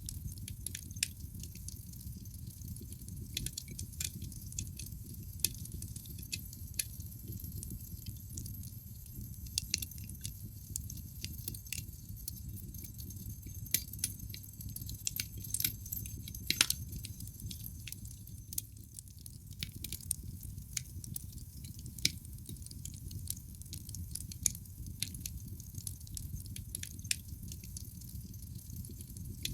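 Wood fire burning in a fireplace: irregular sharp pops and snaps of crackling logs over a steady low rumble, with one louder pop a little past halfway.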